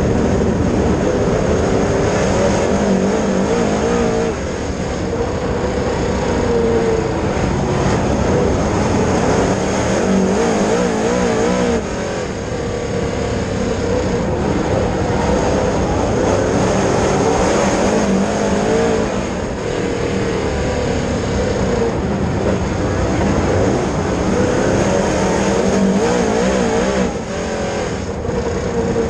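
Dirt late model race car's V8 engine running hard at speed, with a brief drop in level about every seven to eight seconds as the throttle eases.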